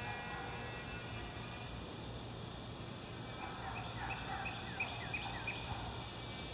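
A steady high insect hiss, with a bird calling a quick series of six or seven falling notes, about three a second, beginning about three and a half seconds in.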